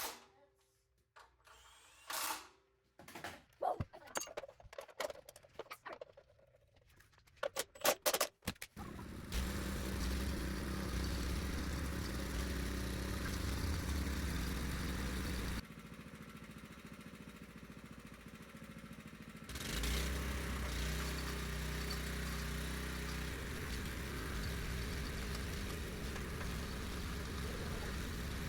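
A few knocks and clicks of handling, then the small single-cylinder engine of a Honda F501 rototiller starts about a third of the way in and runs steadily. Midway it runs quieter for about four seconds, then picks back up.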